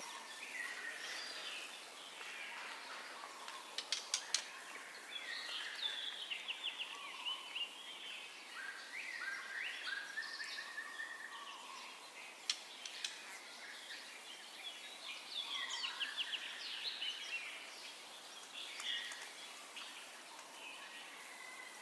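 White-rumped shama singing a string of varied, quick whistled phrases over a background hiss, with a few sharp clicks mixed in.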